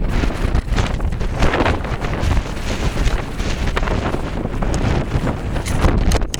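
Strong sandstorm wind buffeting the camera microphone, gusting unevenly over a deep rumble.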